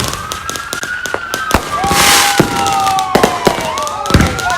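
Fireworks going off: many sharp bangs and crackles, with several overlapping whistles that slide up and down in pitch, and a loud hissing burst about two seconds in.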